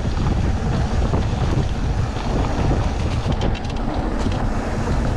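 Wind buffeting the microphone of a rider's camera on a mountain bike descent, a heavy low rushing. There is a cluster of small clicks and rattles from the bike about three to four and a half seconds in.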